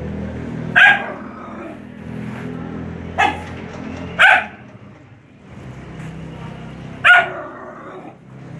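A dog barking four times in short, separate barks, with a lower steady pitched sound running between the barks.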